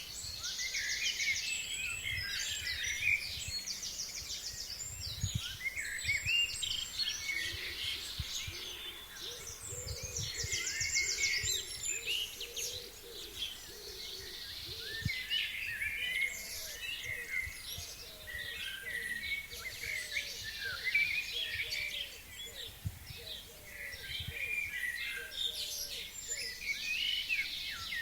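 A chorus of several forest birds singing together in early spring, with quick high trills repeated a few times in the first half. Low gusts of wind rumble on the microphone.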